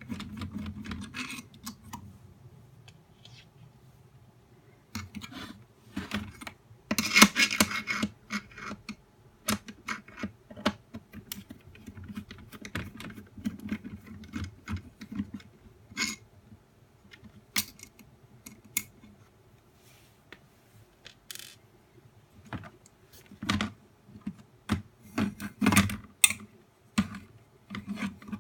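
The plastic housing and small parts of a nail dust collector being handled while it is taken apart and put back together: irregular clicks and taps, with a louder scraping rustle lasting about a second around seven seconds in.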